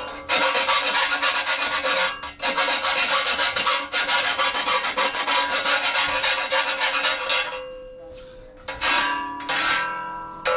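Hand file rasping in quick back-and-forth strokes on the edge of a sheet-steel repair panel, the thin metal ringing under the file. The filing stops about seven and a half seconds in, leaving the panel's ring, and starts again about a second later.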